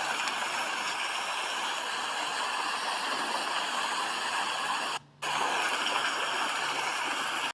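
Steady heavy rain: a dense, even hiss of falling water, broken by a brief gap of near silence about five seconds in.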